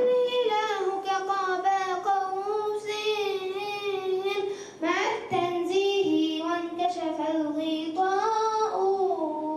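Children's voices singing an Arabic madih, a praise song for the Prophet Muhammad, in long held notes with ornamented glides, with a short break about five seconds in.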